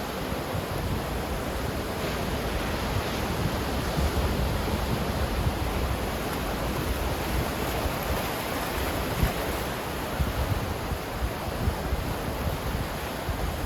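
Ocean surf washing steadily, a continuous hiss of breaking waves with low rumble and no distinct single wave break, and some wind buffeting the microphone.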